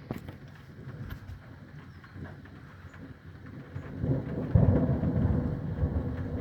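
Thunder rumbling, swelling loud about four seconds in and starting to fade near the end, over rain with scattered drops ticking.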